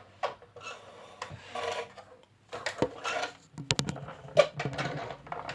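A 1/18-scale toy helicopter and its pilot figures being handled: rubbing and scraping with scattered clicks, a quick run of sharp clicks a little before four seconds in and a louder click just after.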